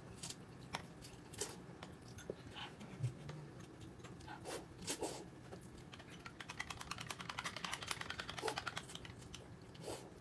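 Quiet eating sounds: scattered clicks and smacks of chewing, then a quick run of fine crackling ticks from about six to eight and a half seconds in.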